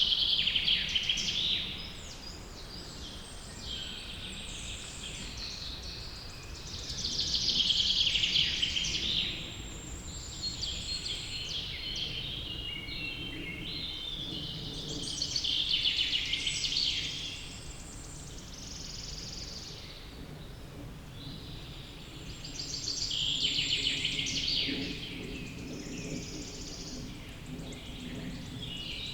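Wild songbirds singing: loud, busy song phrases of about two seconds come back roughly every eight seconds, with softer chirps between them over a steady low background noise.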